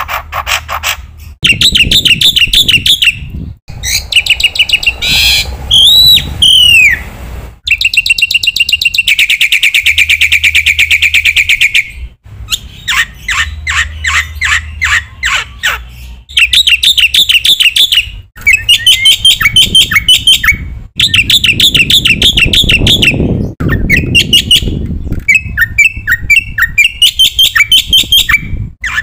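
Black-winged myna (jalak putih) singing loudly in a varied, packed song. Fast chattering runs alternate with rising and falling whistles. A long, even trill comes about nine seconds in, and short breaks fall between phrases.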